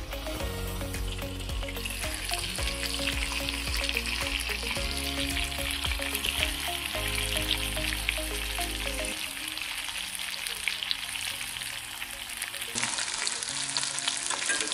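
Chicken sizzling in hot fat in a cast-iron grill pan, a steady crackling hiss. Soft background music plays under it and stops about nine seconds in.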